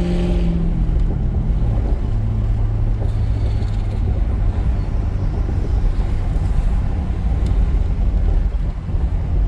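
A 1996 Mercury Grand Marquis 4.6-litre V8 running through a straight-piped single exhaust, with no resonator and the rear catalytic converter deleted. The revs come down, and about two seconds in the exhaust note drops to a lower, steady drone.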